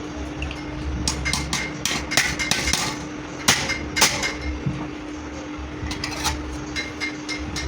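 Hammer tapping on metal: a run of irregular, ringing blows, the two loudest about three and a half and four seconds in. A steady hum runs underneath.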